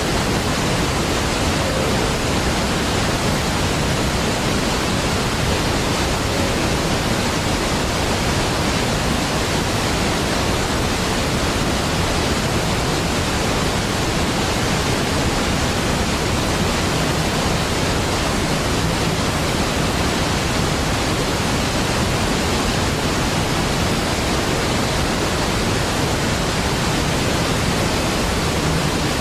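Large waterfall's falling water, a steady, even rushing hiss across all pitches that does not change.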